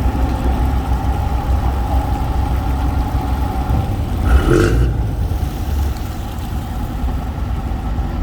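Boat engine running steadily with a low rumble, a short sharper sound cutting in briefly about halfway through.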